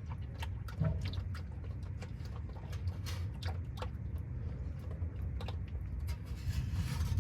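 Automatic transmission fluid trickling and dripping from a partly lowered transmission pan into a catch jug, with scattered small clicks and knocks.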